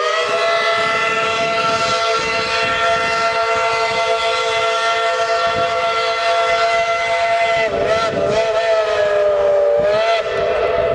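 Steam locomotive whistle of ET&WNC No. 12 blowing one long, loud blast that sounds a chord of several tones at once; the pitch wavers twice near the end, and the blast stops just before the end.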